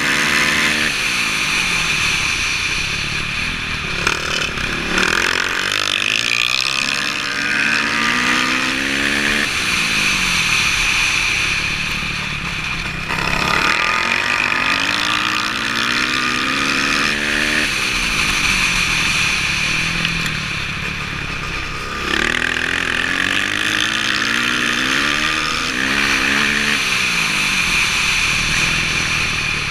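Dirt bike engine accelerating over and over, each rising run of revs breaking off at a gear change and climbing again, with wind rushing past the camera.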